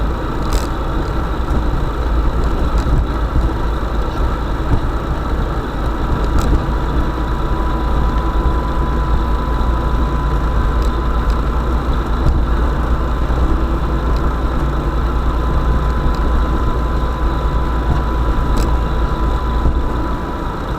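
Vehicle engine running steadily with a heavy low rumble, a steady high whine and a few sharp clicks or knocks.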